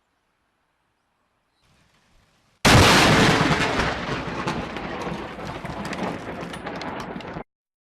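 Close lightning strike: a sudden, very loud thunderclap crack followed by a crackling, rumbling decay for about five seconds, which stops abruptly.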